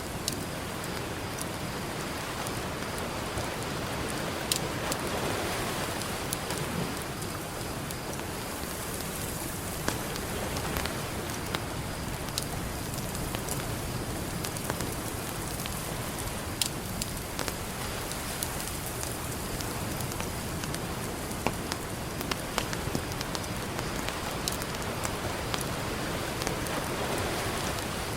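A campfire crackling, with irregular sharp pops, over the steady wash of ocean surf, which swells twice, early on and near the end.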